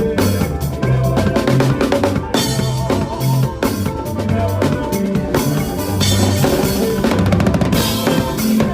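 Drum kit played to a makossa praise music track with a bass line, with a quick roll of closely spaced strikes about seven seconds in.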